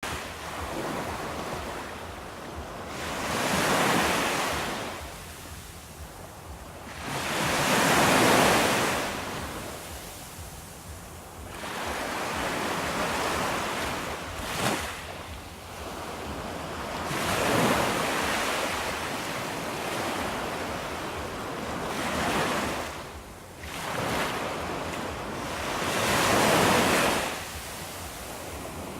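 Ocean waves breaking on the shore, each surge swelling and washing back every four to five seconds, with a brief sharp splash about halfway through.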